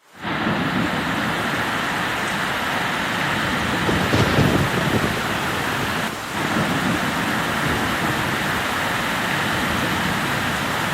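Heavy rain pouring steadily during a thunderstorm, briefly swelling louder with a low rumble about four seconds in.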